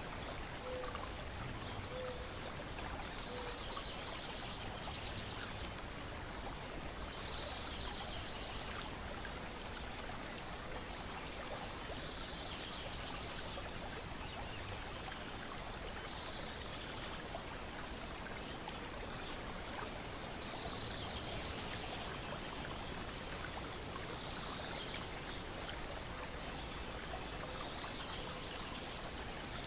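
Lake water lapping and splashing steadily against a shore and deck, with short high bird chirps recurring every couple of seconds.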